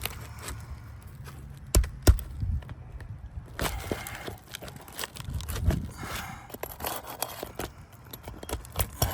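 A metal tool working a missed roofing nail out of an asphalt shingle: sharp metallic clicks, the two loudest close together about two seconds in, with scraping and lighter clinks after.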